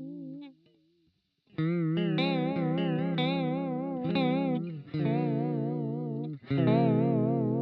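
Electric guitar played through a TC Electronic Corona Chorus pedal on a vibrato Toneprint, the pitch of every note wavering evenly. A note fades out, then after a short gap a series of notes is picked, ringing into one another.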